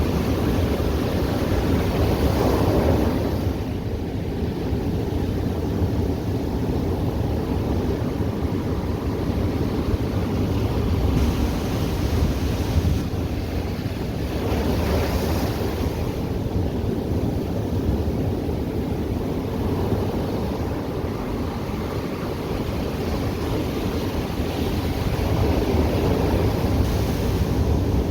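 Ocean surf washing onto the beach, a steady rush that swells as waves break about three times, with wind rumbling on the microphone.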